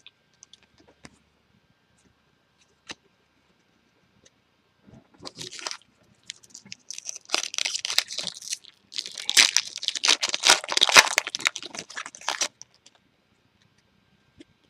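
Trading-card pack wrapper being torn open and crinkled by hand. A few light clicks come first, then about seven seconds of dense crackling from about five seconds in.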